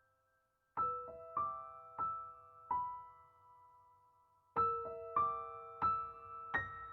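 Background piano music: a slow, gentle melody of single notes and chords, each note struck and left to ring, after a short pause near the start.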